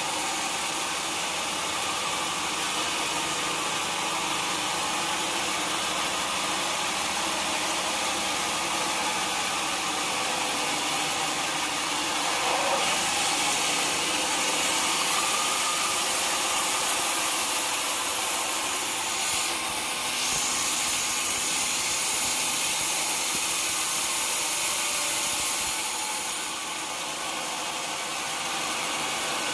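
Sawmill machinery running steadily, its saw cutting through wood; the cutting grows louder and hissier from about halfway through and eases off near the end.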